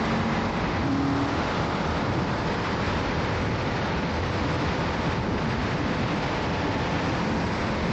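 Indian FTR V-twin motorcycle being ridden at a steady speed, its engine running low under a constant rush of wind noise on the microphone.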